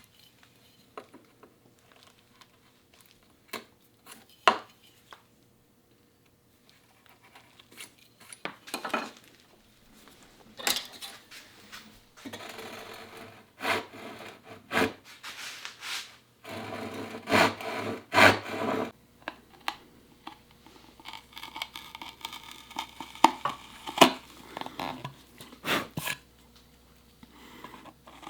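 Hand tools working a wooden dovetail joint: bursts of quick rasping, scraping strokes of sawing and paring, with scattered sharp taps and clicks.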